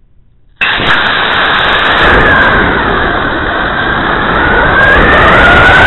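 Loud, dense rushing roar of a model rocket in flight, starting suddenly under a second in, with a whistle that dips in pitch and then rises again.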